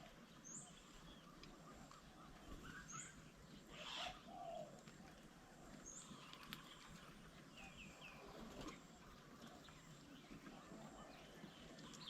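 Faint birdsong from several birds, with a short high note repeating about every two and a half seconds and scattered other calls, one a little louder about four seconds in.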